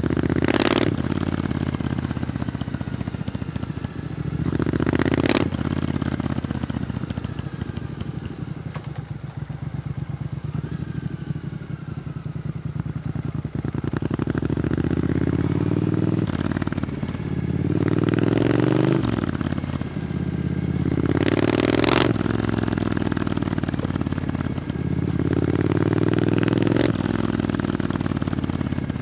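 Triumph Scrambler 900's parallel-twin engine running through an Arrow exhaust while riding, the pitch climbing under acceleration and dropping back at each gear change. A short sharp crack comes with several of the shifts.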